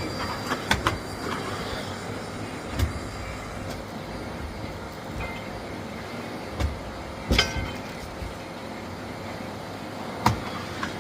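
Miele Blizzard CX1 bagless cylinder vacuum cleaner running steadily, with a few sharp knocks as the cleaning head bumps and is moved about.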